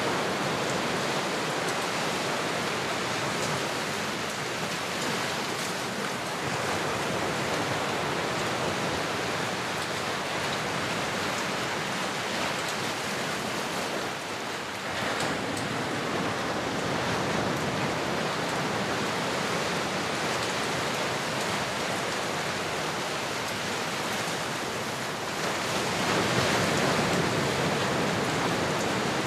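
Ocean surf: a steady rush of waves washing in, easing briefly about halfway through and swelling louder near the end.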